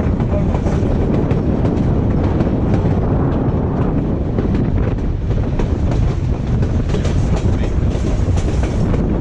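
White Pass & Yukon Route passenger train rolling along the track: a steady loud rumble with irregular clicking of the wheels over the rails.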